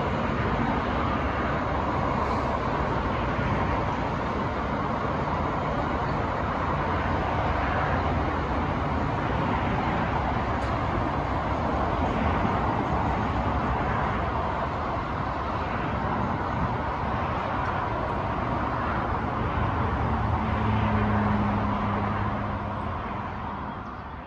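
Long container freight train running through the station, its wagons making a steady rolling noise on the rails. A low hum joins in for a couple of seconds near the end.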